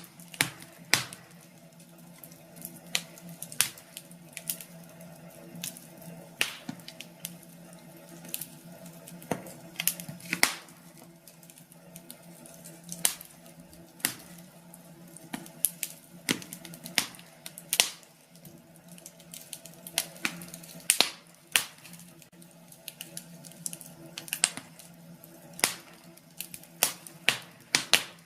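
Wood fire crackling in a fireplace: irregular sharp pops and snaps over a low steady background.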